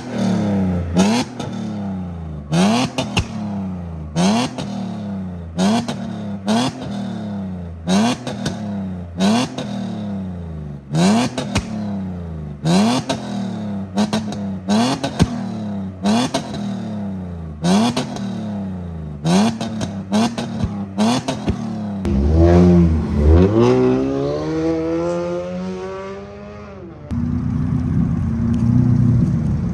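Car engine being revved in quick blips about once a second, each a short rise and fall in pitch, with sharp cracks among them. Then one long rev climbs steadily in pitch and drops suddenly near the end.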